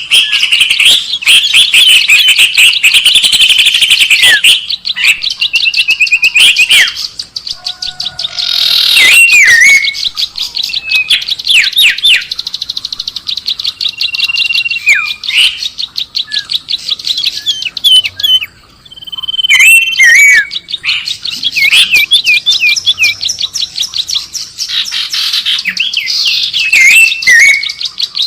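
Birdsong lure recording: several small birds chirping and trilling at once, with fast twittering and sliding whistles, briefly dropping out about two-thirds of the way through.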